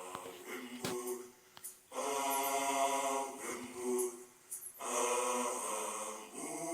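Unaccompanied singing, with voices holding long notes in phrases of one to two seconds separated by short breaks.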